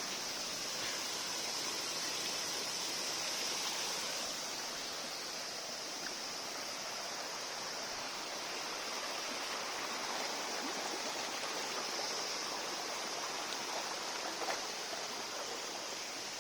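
Steady outdoor ambience after rain: a continuous rushing like running water, with a steady high hiss above it and a few faint clicks.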